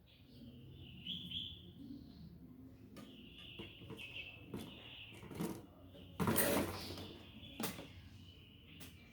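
Small birds chirping intermittently, with a few sharp clicks and a brief louder scraping noise about six seconds in, typical of parts being handled on a workbench.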